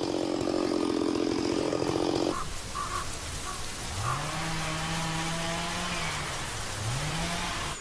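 Chainsaw running with a fast, buzzing engine note that cuts off abruptly about two and a half seconds in. Then a chainsaw engine rises in pitch, holds, drops back and revs up again.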